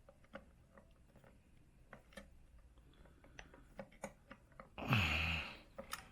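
Small scattered clicks and taps of metal engine parts and hand tools being handled, with one louder half-second rush of noise, falling in pitch, about five seconds in.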